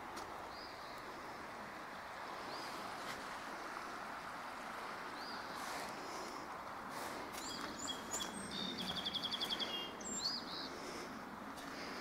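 Songbirds calling outdoors: several short rising chirps and, near the end, a rapid trill of about a dozen quick notes, over a steady rushing background noise.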